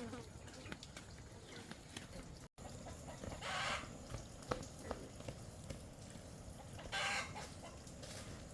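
Chickens clucking, with two short loud squawks about three and a half and seven seconds in. Scattered light taps and knocks come in between.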